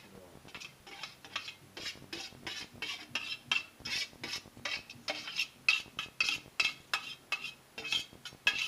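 A metal kitchen utensil repeatedly knocking and scraping against cookware, in quick strokes of about two to three a second, as in stirring or working food in a pan or bowl.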